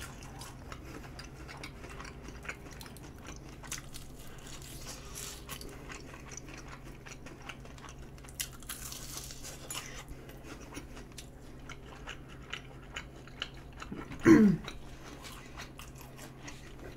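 Close-up chewing and crunching of Kyochon Honey Combo fried chicken, with many small crisp clicks from the bites and chews. A brief vocal sound comes about fourteen seconds in.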